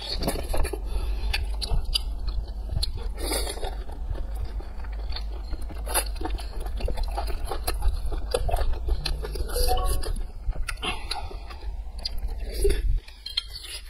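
Close-up chewing and biting of cooked sea snail meat: many small wet, clicky mouth sounds. A low steady hum sits underneath and cuts off near the end.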